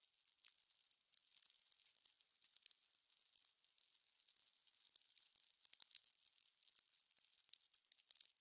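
Fire crackling: faint, irregular high pops and snaps over a soft hiss, thickest about five to six seconds in.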